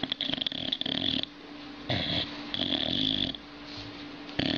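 A dog's raspy growling in several bursts with short breaks between them.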